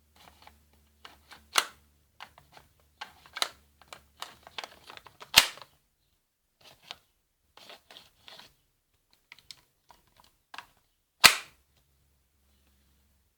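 Airsoft Beretta M9 pistol firing four sharp cracks, the loudest about five seconds in and near the end, with smaller clicks and rattles from handling in between.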